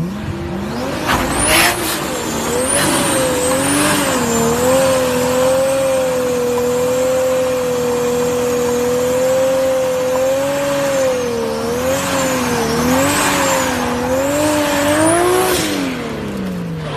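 Turbocharged car engine held at high revs, its pitch wavering up and down for about fourteen seconds, with a thin high whistle wavering above it. It climbs in the first second or so and drops away near the end.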